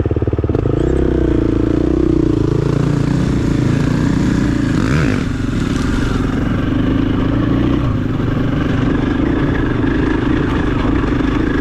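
KTM 500 EXC-F single-cylinder four-stroke dirt bike engine revving up right at the start as the bike pulls away, then running steadily under throttle.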